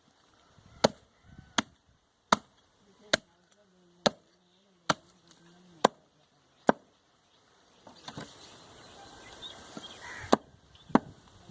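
Heavy knife chopping goat meat on a chopping block: eight sharp strokes at a steady pace of a little over one a second, a pause, then two more strokes near the end.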